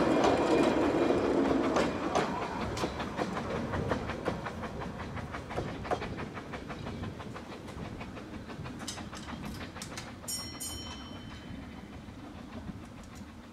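Narrow-gauge train passing and moving away, loud at first and fading steadily, its wheels clicking rhythmically over the rail joints. A brief high-pitched tone sounds about ten seconds in.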